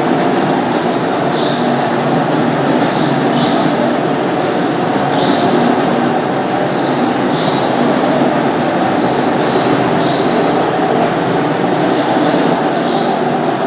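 Floor polishing machine running steadily, spinning a handmade cedar-sawdust buff pad over a marble floor, with a brief high note that comes back every second or two.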